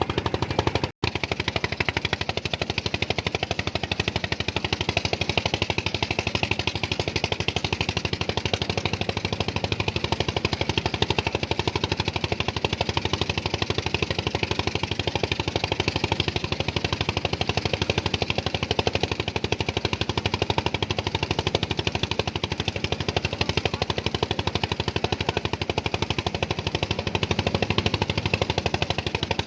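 Small engine running steadily at close range, with rapid, even firing pulses and a momentary break about a second in.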